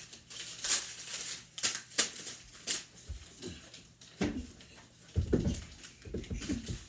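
Sheets of paper rustling and crackling in short bursts as they are folded and creased into paper airplanes, with a few dull knocks in the second half.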